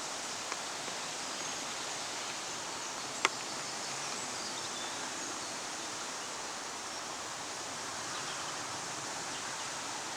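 Steady outdoor ambient hiss, with a single sharp click about three seconds in.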